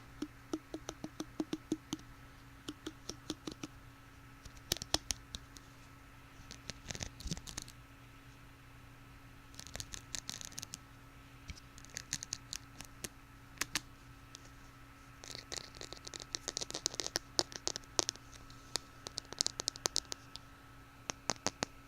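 Cheap plastic hair pick handled close to the microphone: quick runs of light clicks mixed with short scratchy rasps.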